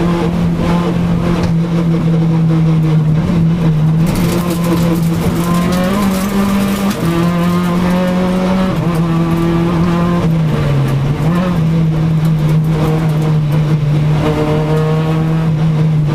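Renault Clio RS rally car's engine heard from inside the cabin, running hard at high revs; its pitch stays high and steady, dipping and climbing back in small steps several times as the driver shifts and lifts.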